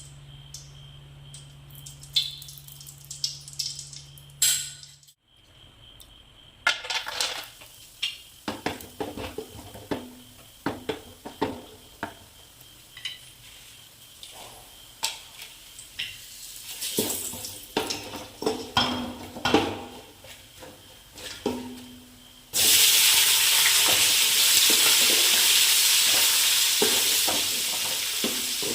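Cooking sounds: a spoon and vessels clink and knock against a pot for a long stretch. About three-quarters of the way in, a sudden loud sizzle starts as food hits hot oil, and it keeps frying steadily.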